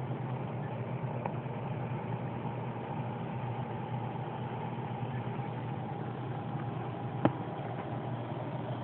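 Steady low machine hum, like an idling engine or running motor, with one sharp click about seven seconds in.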